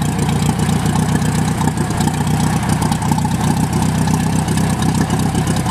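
An old tractor engine running steadily at idle.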